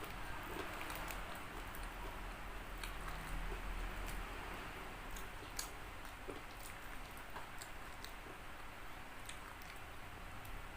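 Close-miked chewing of crispy fried chicken, with irregular sharp crunchy clicks over a steady wet chewing noise.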